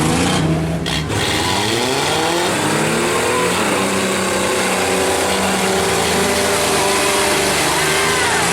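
Several compact truck and van engines in a demolition derby heat, revving up and down at different pitches that overlap.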